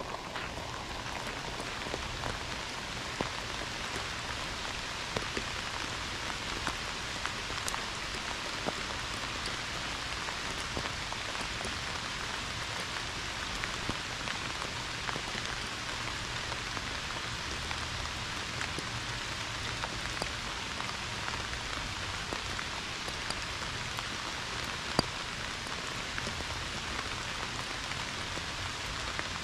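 Pouring rain falling steadily, a dense even hiss with scattered individual drops ticking; one sharper drop tick near the end.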